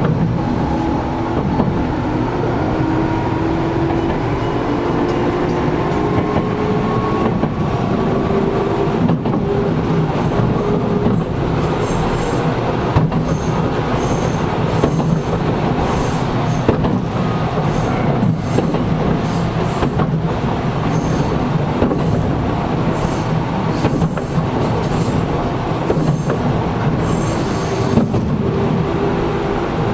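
Interior running sound of a Gakunan Railway 7000 series electric railcar under way. The motor and gear whine rises in pitch over the first ten seconds or so as the train gathers speed, then the wheels beat over rail joints in a steady clickety-clack. The air conditioning runs underneath.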